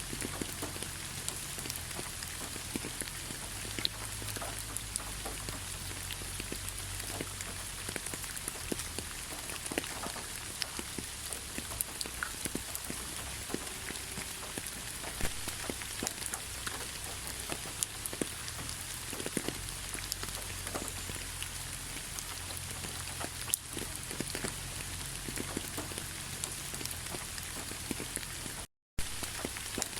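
Steady rainfall, with many separate raindrops ticking on a surface over an even hiss. The sound cuts out completely for a split second near the end.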